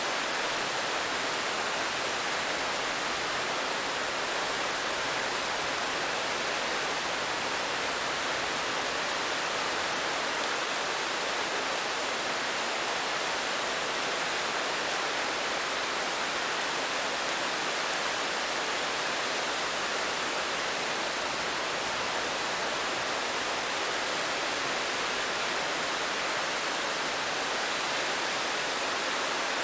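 Steady rainfall: an even, unbroken hiss at a constant level, with no single drops, thunder or other sounds standing out.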